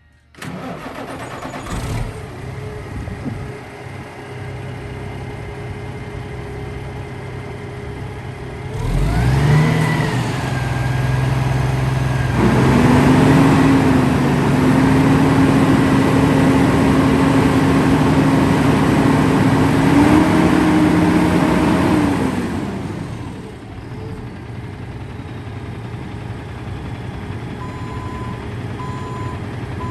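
Diesel engine of a 2003 International 9400i tandem-axle truck tractor idling, revved up about nine seconds in, held at raised speed for about ten seconds, then let fall back to idle. Faint reversing beeps begin near the end.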